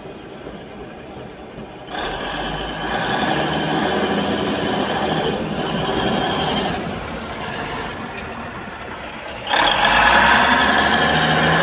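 Heavy diesel engines of a tipper truck and a bulldozer running under load as the dozer pushes the stuck truck from behind. The engine noise rises about two seconds in and gets louder again near the end.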